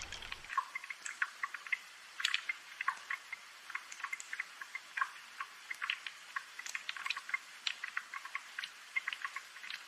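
Rainfall: scattered drops ticking and dripping over a light hiss, with no low rumble beneath.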